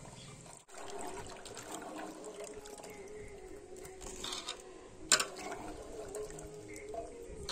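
Water trickling and splashing, with one sharp click about five seconds in.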